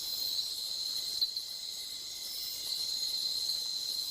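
Night insect chorus of a tropical rainforest: a continuous shrill, even-pitched trill over a higher hiss of more insects, with a faint tick about a second in.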